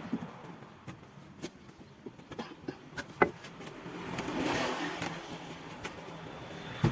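Scattered light taps and knocks, with one sharper knock about three seconds in, and a swell of road noise that rises and fades in the second half like a vehicle passing.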